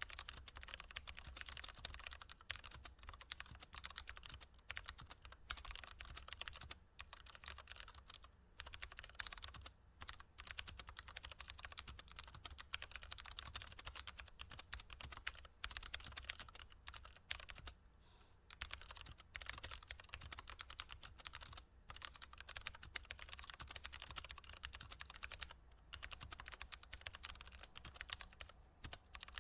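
Typing on a computer keyboard: a fast, continuous run of key clicks with a few brief pauses.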